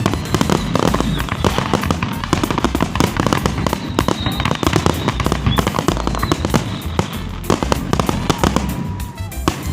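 Fireworks display: a dense, rapid volley of overlapping bangs and crackles.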